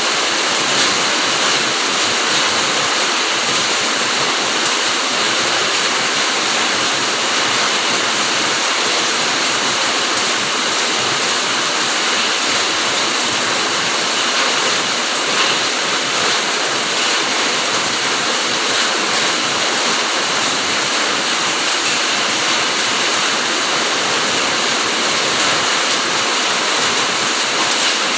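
Steady rain falling, a dense, even hiss that holds without a break.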